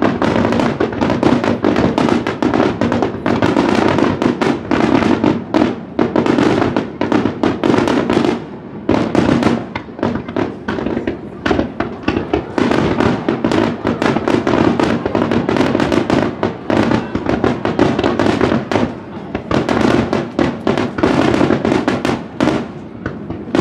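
A fireworks barrage heard from close range: a rapid, dense run of launch booms and shell bursts with crackling, near-continuous throughout.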